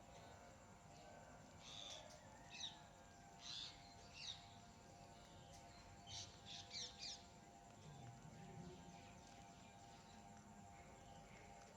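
Faint chirping of small birds: a cluster of quick high chirps about two to four seconds in and another around six to seven seconds, over a steady faint hum.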